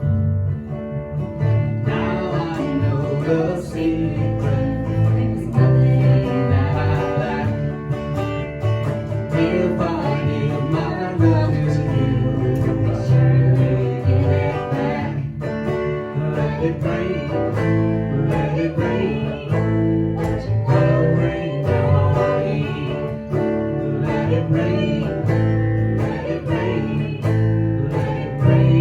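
Guitar-led band music, played live, with a strong bass line under the guitars.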